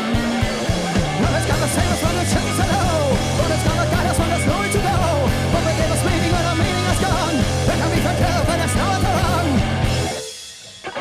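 Live rock band playing loud, with drums, held low bass notes and wavering guitar lines; the band stops about ten seconds in and the sound fades out.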